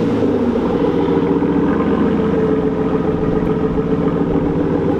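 Aston Martin Vanquish V12 engine idling steadily just after being started.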